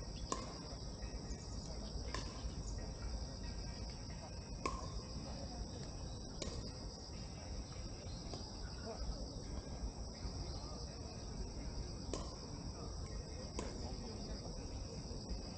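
A steady, high chorus of insects trilling outdoors over a low rumble, with a few sharp clicks at irregular intervals.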